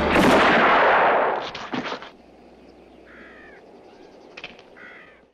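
A single revolver shot from a Western film soundtrack: a sharp crack that rings on and dies away over about two seconds. A few faint clicks follow, and two short caws come near the end.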